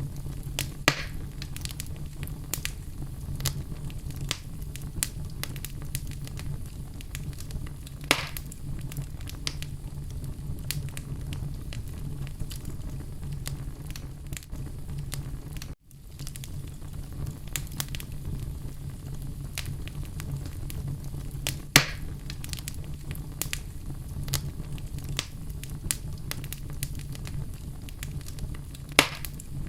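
Wood fire burning in a fireplace: a steady low rumble of flames under frequent small crackles, with a few louder pops and snaps spread through. The sound drops out for an instant about halfway.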